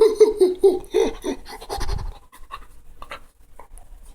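A person's voice making a quick string of short wordless vocal sounds, then a low thump about two seconds in and a few faint scratchy clicks.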